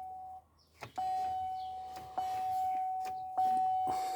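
Chevrolet Silverado's dashboard warning chime dinging repeatedly, about once every second and a quarter, each ding a single steady tone that fades before the next; the chime stops briefly early on, then resumes.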